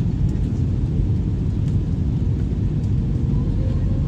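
Airbus A321 airliner noise: a steady low rumble with a faint steady tone running through it.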